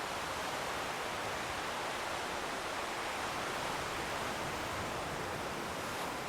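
Distant sea surf, a steady even wash of noise with no breaks.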